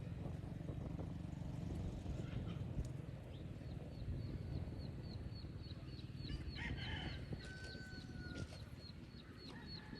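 Outdoor farmyard ambience: a steady low rumble, with bird calls over it. These include a thin high chirp repeating about three times a second from a few seconds in and a short held whistled note near the end.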